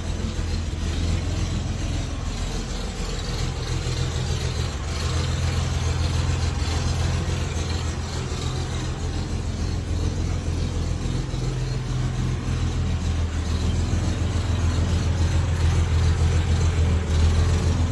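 1962 Chevrolet Corvair's air-cooled flat-six engine running steadily, with a low, even hum that grows a little louder toward the end.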